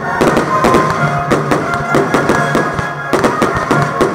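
Music with a steady beat playing over a fireworks display, with bangs of fireworks launching and bursting mixed in.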